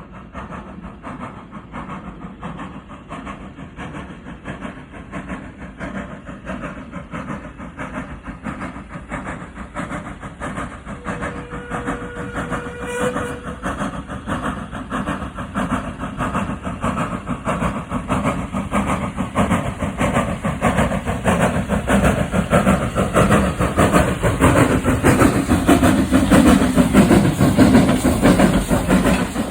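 Train running on the line and coming closer, its rapid rhythmic rumble and clatter growing steadily louder until it is passing close near the end. A brief faint tone sounds about eleven seconds in.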